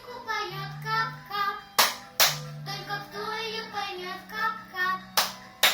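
A young girl sings a children's song over an instrumental accompaniment with steady low notes. Two pairs of sharp hand claps, the loudest sounds, come about two seconds in and again near the end.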